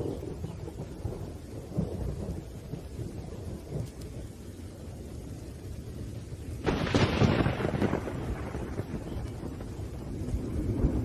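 Thunderstorm: steady rain under low rolling thunder, with a sharper, louder thunderclap about two-thirds of the way through that dies away over a second or so, and the rumbling swelling again near the end.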